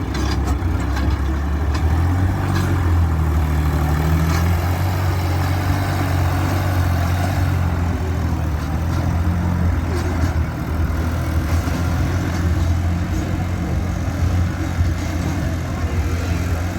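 Farm tractor's diesel engine running steadily at low revs.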